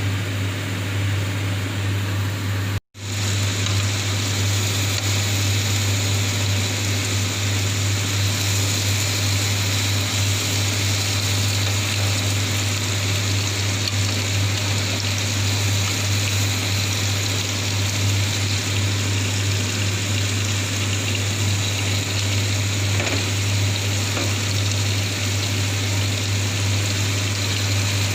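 Steady low hum with an even hiss over it, as of a kitchen appliance running while the covered chicken grills. The sound drops out for a split second about three seconds in.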